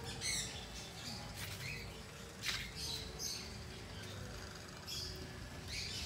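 Birds chirping and calling outdoors: short, high calls scattered about once a second over a faint background.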